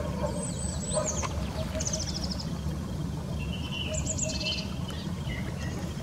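Wild birds calling in short, high chirps and rattling trills, several times, over a steady low rumble.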